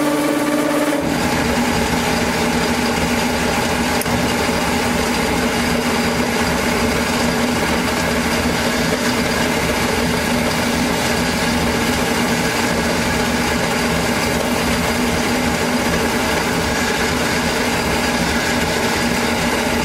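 An electric workshop machine runs steadily with a humming tone. About a second in, its pitch drops slightly and a rough, noisy layer joins it and holds, as when a tool comes under load.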